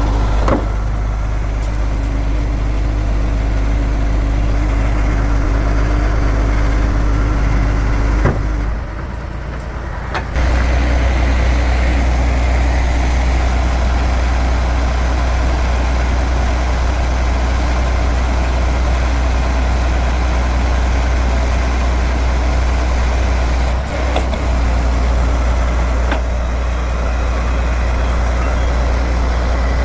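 Diesel engine of an Iveco 380E42 heavy 6x6 truck running steadily. About eight seconds in the sound drops for a couple of seconds, then comes back just as loud.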